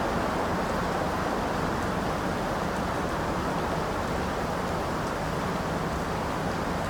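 Steady rain falling, an even hiss of noise with no separate drops or thunder standing out.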